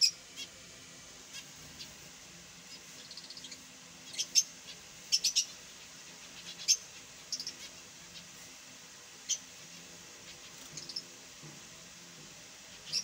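Caged finches chirping: short, sharp calls scattered irregularly, some in quick clusters of two or three.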